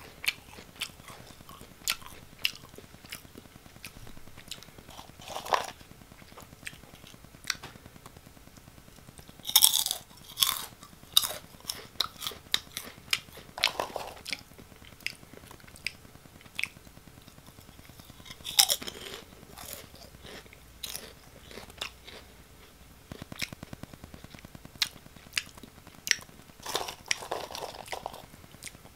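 Crunchy O!Gamja potato snacks being bitten and chewed close to the microphone: a long run of sharp crunches, with louder bursts about ten seconds in and again near nineteen seconds.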